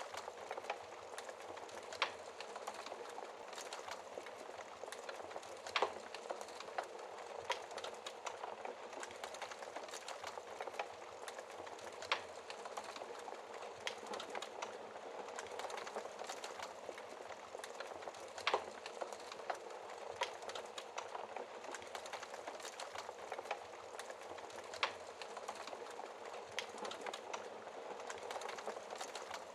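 Wood fire crackling in a fireplace: a steady hiss full of small crackles, with a sharper, louder pop every several seconds.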